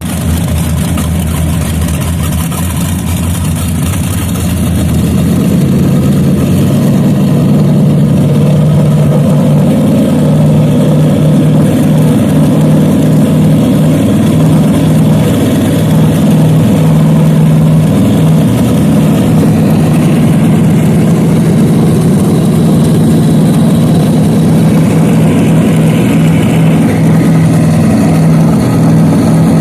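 Boat engine running at its spring start-up: it idles at first, then speeds up between about four and six seconds in and holds a steady higher speed.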